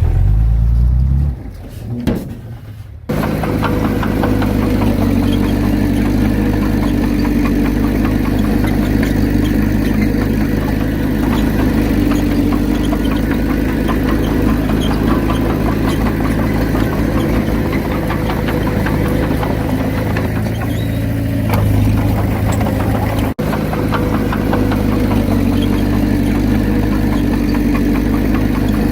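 Heavy diesel engine of earthmoving machinery running steadily, with a low rumble before it comes in abruptly about three seconds in.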